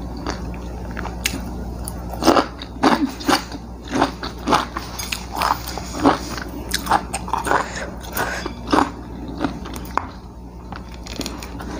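A person chewing crisp fried food close to a clip-on microphone: a run of loud, irregular crunches through most of the stretch, easing off near the end, over a steady low hum.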